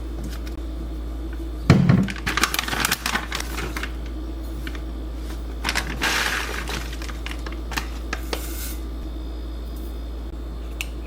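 Kitchen dishes and utensils being handled: a thud of something set down on the counter about two seconds in, then a run of light glassy clinks and clicks, with a short rustling hiss around six seconds and a few more clicks later. A low steady hum sits underneath.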